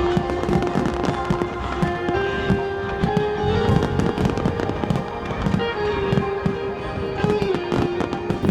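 Aerial fireworks going off in a rapid run of bangs and crackles, mixed with music that carries a held, slowly changing melody.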